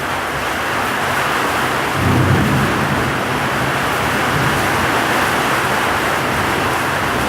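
Heavy rain pouring in a steady hiss, with a low rumble of thunder swelling about two seconds in.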